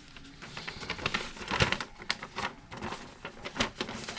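Irregular plastic clicks and taps of hands working a wall thermostat, with one louder knock about a second and a half in.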